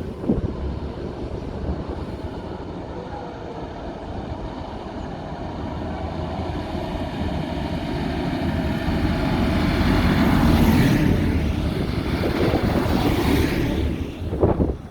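Tractor engine running as it passes by, growing louder to a peak about two-thirds of the way through and then easing off.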